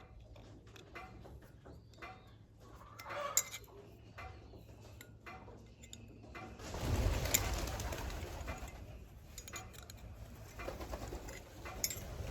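A dove cooing over scattered metallic clicks and clinks of tools being handled, with a rush of noise lasting about two seconds midway through.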